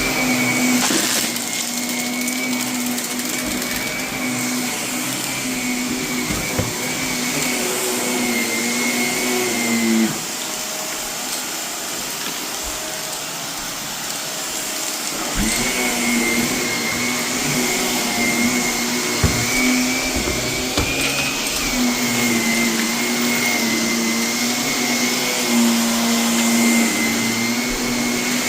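Vacuum cleaner running over debris-strewn carpet with a steady motor hum and high whine, and scattered crackles of grit being sucked up. The whine drops away about ten seconds in and comes back about five seconds later.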